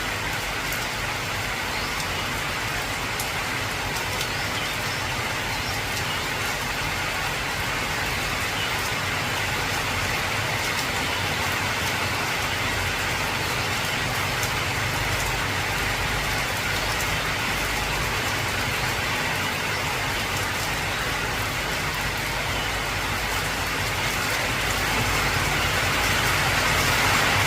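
Heavy rain drumming steadily on an old corrugated galvanized-iron (tin) roof, a dense hiss of countless drops that grows louder over the last few seconds.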